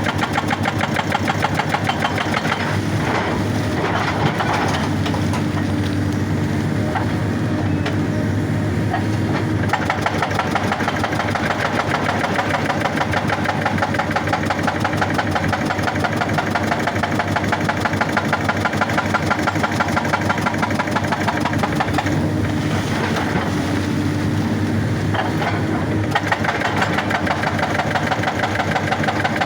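Excavator-mounted hydraulic rock breaker hammering rock in a rapid, even stream of blows, over the excavator's diesel engine running under load.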